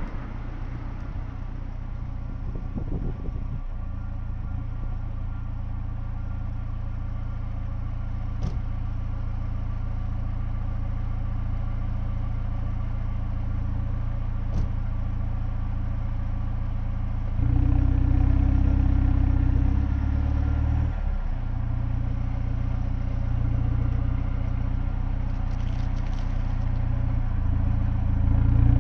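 Tuned BMW's engine idling steadily with a low, even note; a little over halfway through it steps up louder and fuller, dips briefly, then swells again near the end.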